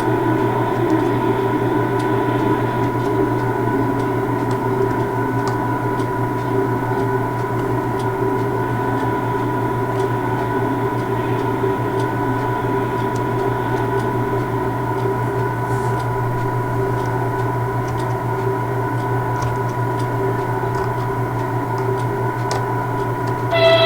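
A standing railway locomotive humming steadily, several fixed pitches held with no change, and faint ticks throughout. A brief tonal sound near the end.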